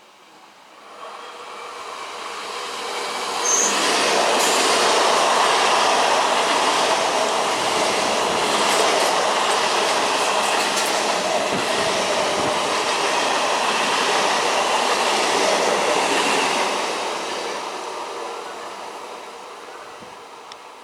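An Indian Railways train passing at high speed: the rumble of wheels on rail builds over a few seconds, holds loud for about twelve seconds with a few sharp clicks, then fades as the train goes away.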